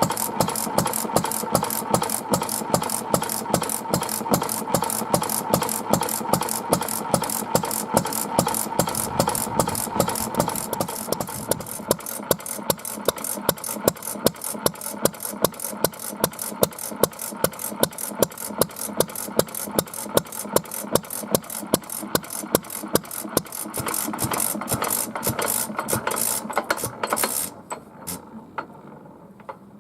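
Takahashi Karui 2.5 hp oil-fuelled stationary engine running with a regular, sharp beat. The beat grows quieter over the second half and stops shortly before the end as the engine comes to rest.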